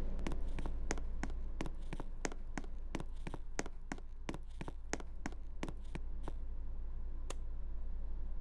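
Sharp, evenly spaced clicks, about three a second, that stop suddenly about six seconds in, with one more click near the end, over a steady low hum.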